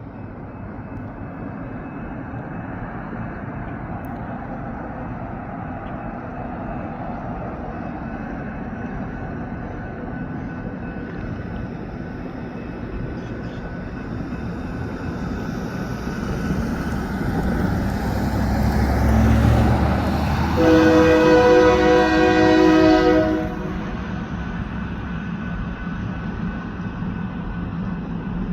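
Diesel train locomotive running, its engine rumble building, then one horn blast of about three seconds, several tones sounding together, near the end; the sound of the train getting under way.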